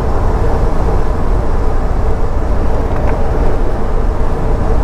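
Truck driving on the road: steady engine and road rumble with a constant drone.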